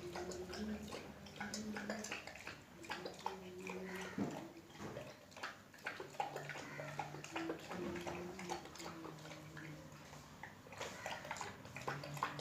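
Saint Bernard dog eating from its bowl: a steady run of quick, irregular wet clicks and smacks from its mouth and the food.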